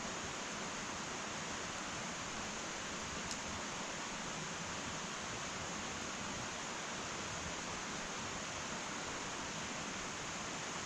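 Wood fire burning in an irori sunken hearth: a steady soft hiss with one faint crackle about three seconds in.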